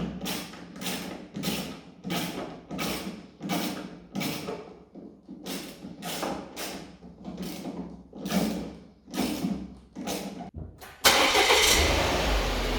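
2016 Volvo XC70 engine cranking on the starter in a long run of even strokes, about one and a half a second, then catching about eleven seconds in and settling into a steady idle.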